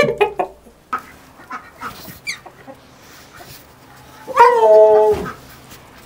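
Chickens clucking softly, then a rooster crowing once, loud, about four seconds in, its call holding and then dropping away.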